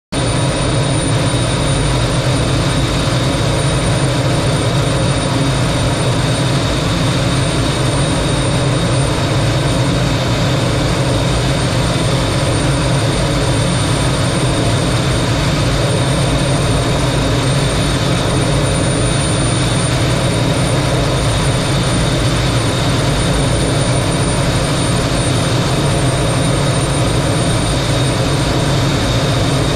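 A T-33 jet's Allison J33 turbojet running steadily: a loud, constant rushing noise with a thin, high, steady whine over it.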